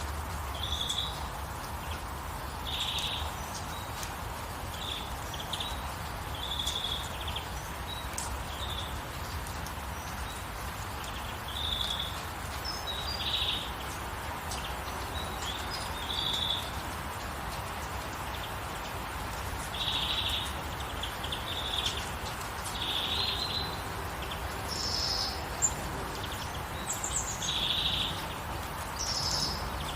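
Birds chirping over a steady hiss of gentle rain. Short notes repeat every second or two, and higher, quicker chirps join near the end.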